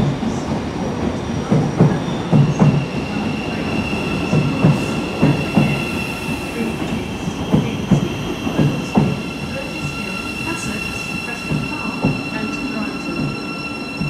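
Thameslink Class 700 electric train moving along the platform, its wheels knocking repeatedly over the rail joints. A steady high squeal sets in about two seconds in and runs on under the knocking.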